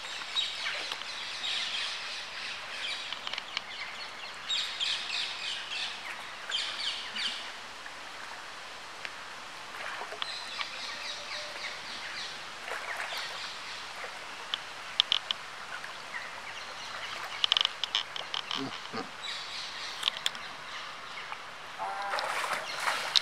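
Small birds chirping in short runs of high calls, repeated every second or two over steady outdoor background noise.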